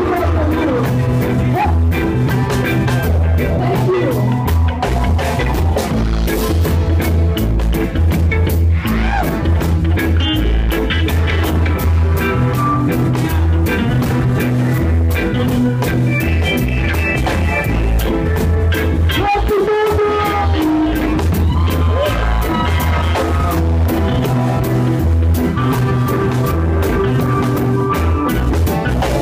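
Live band music played at full volume, with a steady beat and repeating low notes; the low end drops out for a moment about twenty seconds in.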